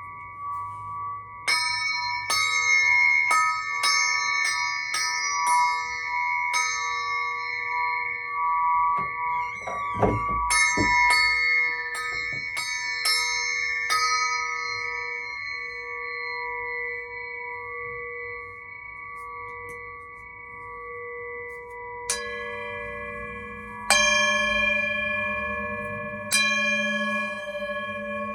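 Crystal singing pyramid struck repeatedly with a small stick, its clear bell-like tones ringing on and overlapping. Quick strikes come about twice a second at first; near the end a few heavier strikes bring in a deeper tone.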